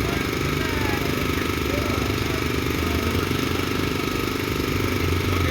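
Engine of heavy construction machinery running steadily with a low rumble.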